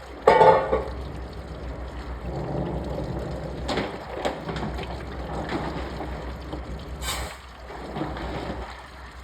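Washing machine running with water sloshing and trickling inside the drum, with a louder burst just after the start and a few short clicks.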